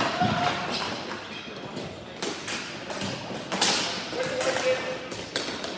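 Ball hockey play: a string of sharp knocks and taps from sticks and the ball striking sticks and boards, the loudest about three and a half seconds in.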